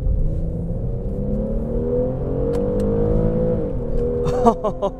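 2015 Infiniti Q60's 3.7-litre naturally aspirated V6 revving under hard acceleration, heard from inside the cabin. Its pitch climbs steadily for about three seconds, then drops at an upshift near four seconds in.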